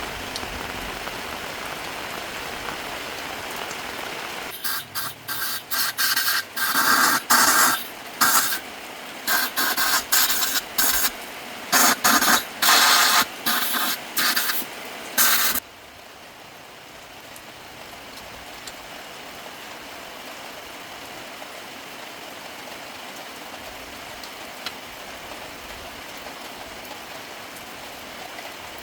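A spray nozzle hissing: a steady spray, then a run of short, loud on-off bursts for about ten seconds, then a fainter steady hiss.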